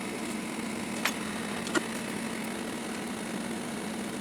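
A steady low mechanical hum, with two faint light clicks about a second apart near the middle.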